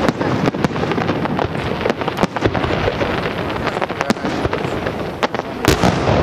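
Aerial firework shells bursting in quick succession over steady crackling, with the loudest bang near the end.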